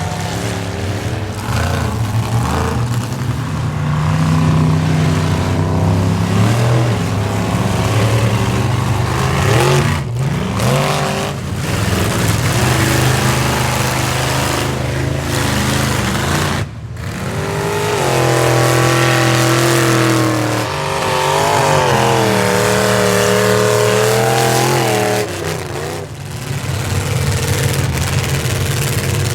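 Square-body Chevy pickup's engine revving hard under load in a mud bog, its pitch climbing and falling again and again. There is a brief break about halfway through, then more hard revving.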